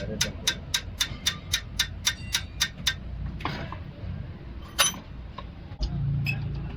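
Rapid, evenly spaced sharp mechanical ticking, about four ticks a second, that stops about three seconds in; a single louder click follows near the five-second mark.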